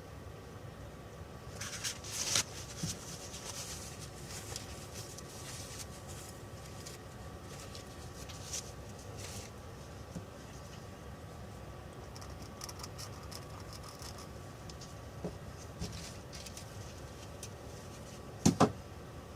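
Small handling noises: scattered light clicks and scrapes, with two sharp knocks in quick succession near the end.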